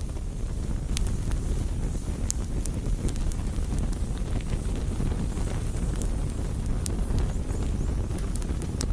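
Campfire burning, with irregular sharp crackles and pops of burning wood over a steady low rumble.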